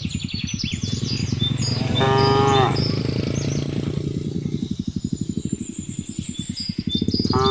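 Cattle mooing: a long, deep, pulsing moo, with a shorter, higher-pitched moo about two seconds in and another starting near the end.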